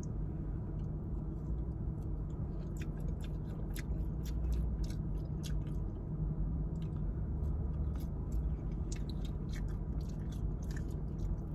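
A person chewing and crunching fried food close to the microphone, with many short crisp crunches and mouth clicks over a steady low hum.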